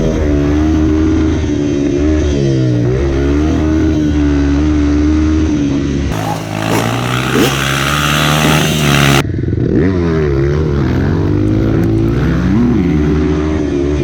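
Four-stroke dirt bike engine running on a motocross track, its pitch rising and falling with the throttle, with a harsher, louder stretch around the middle.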